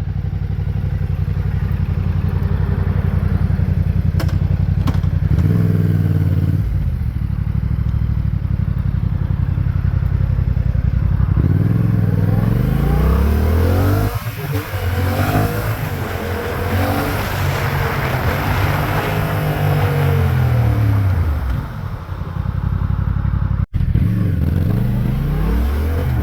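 Yamaha MT-07's parallel-twin engine through a LeoVince underbody exhaust, running steadily at first, then pulling away with the pitch rising and falling repeatedly through the gears, with wind noise building at speed.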